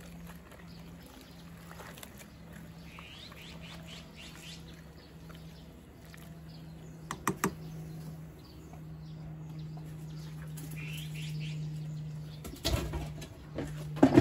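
Small birds chirping in short rising calls over a steady low hum, with two sharp clicks midway and louder knocks and rustling near the end.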